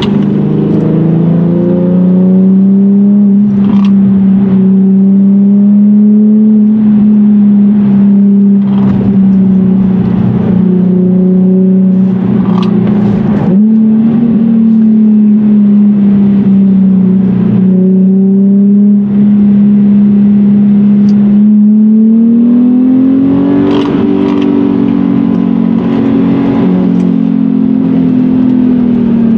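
Infiniti G37's V6 engine heard from inside the cabin, holding a steady engine note under load through the bends. The note climbs a little about three-quarters of the way through, then eases back. Occasional brief knocks are heard over it.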